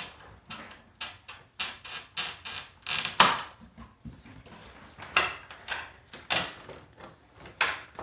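Irregular clicks, knocks and scrapes of hands working the plastic case and inner parts of a Casio Casiotone CT-360 keyboard, freeing a part that was stuck inside.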